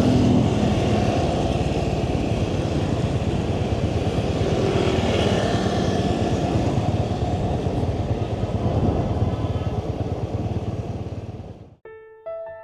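Motorbike engine running steadily on the move, mixed with a constant rush of wind and road noise. It cuts off suddenly near the end, and soft piano notes begin.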